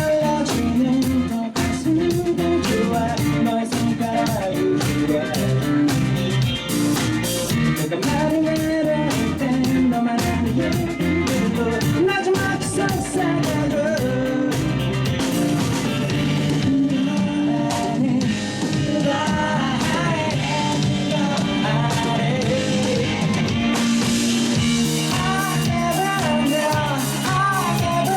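An indie rock band playing a song live: a sung vocal over electric guitar and a drum kit, steady throughout.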